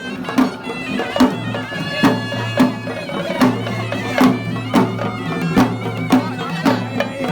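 Traditional music: a reedy wind instrument with a steady drone, over a regular drum beat.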